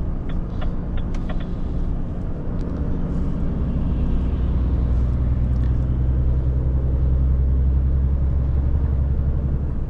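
Renault truck's diesel engine heard from inside the cab, running steadily and growing louder from about two seconds in as the fully loaded truck pulls on. A few light clicks come in the first second and a half.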